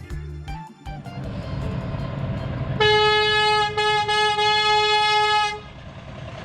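A vehicle horn sounds one long steady blast of just under three seconds, briefly dipping near the middle. It plays over the steady low running of farm machinery engines.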